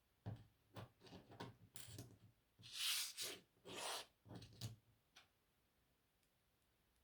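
Lego plastic pieces being handled: a run of small clicks and rattles, with two louder rustling stretches about three and four seconds in, then quiet handling near the end.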